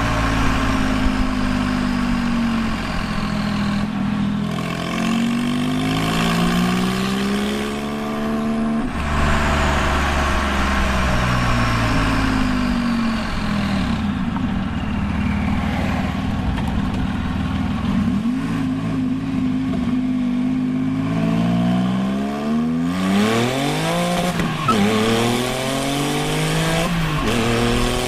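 Straight-piped 2001 Porsche 996 911 Turbo's twin-turbo flat-six under hard acceleration. The revs climb and drop again and again as the six-speed manual is shifted, with a steadier stretch of running in between.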